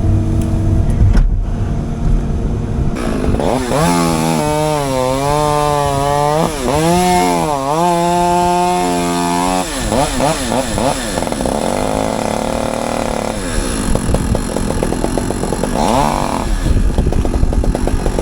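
An engine runs hard and revs, its pitch dipping under load and climbing back several times, then settles into a fast, even running sound.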